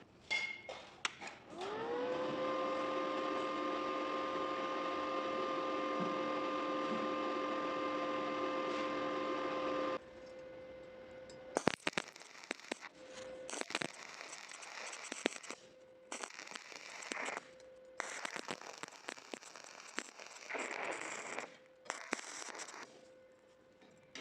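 A power-tool motor spins up with a rising whine and runs steadily for about eight seconds before stopping abruptly. After that, electric arc welding crackles and spits in several irregular spells, with a faint steady hum behind it.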